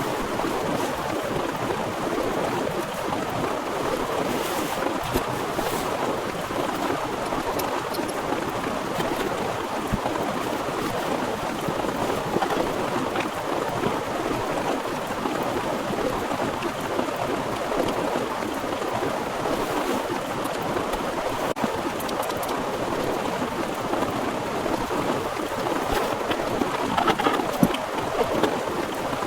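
Heavy rain pouring steadily with wind, an even, dense hiss with scattered sharper drops and a few louder spatters near the end.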